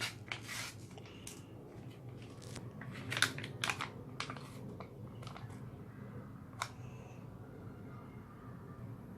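Crinkling and tearing of a sheet-mask pouch being handled and opened, in a cluster of quick crackles over the first few seconds, then a single click about six and a half seconds in, over a low steady hum.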